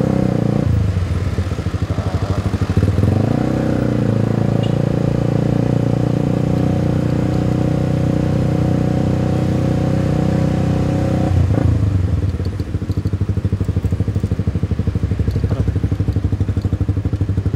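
Motorcycle engine running at low speed in crawling traffic. Its pitch rises a few seconds in and holds steady, then drops back after about eleven seconds to a slower, pulsing low idle.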